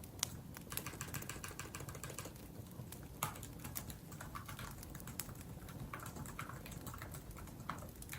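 Typing on a laptop keyboard: bursts of rapid keystrokes, densest in the first couple of seconds, then scattered taps. A wood fire burns steadily underneath.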